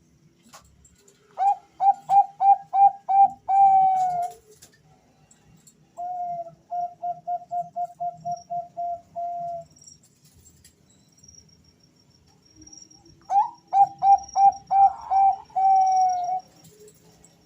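Two male Bangkok-type zebra doves (perkutut) cooing in answer to each other, in three phrases of quick, evenly spaced notes. The first and last phrases are loud and end on a longer drawn-out note; the middle phrase is quieter.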